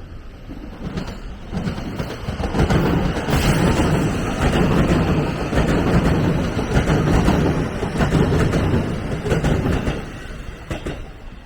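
A train passing close by on the line: the rumble builds, runs loud for about seven seconds with scattered sharp knocks from the wheels on the track, then fades away near the end.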